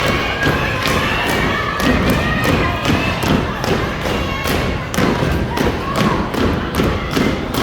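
Drill team stomping and clapping in a fast, uneven rhythm of loud, sharp impacts, about two to three a second.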